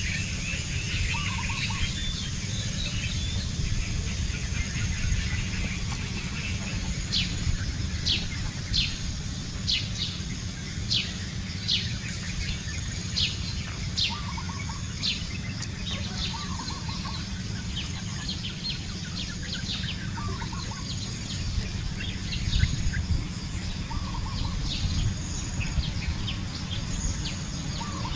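Birds calling: a quick run of short notes near the start, then a series of sharp, high, falling notes about one a second through the middle, with scattered softer calls throughout, over a steady low rumble.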